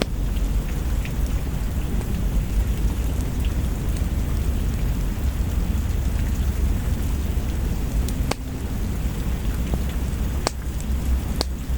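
Steady rain with a low, continuous rumble underneath. A few sharp crackles from a wood fire come near the end.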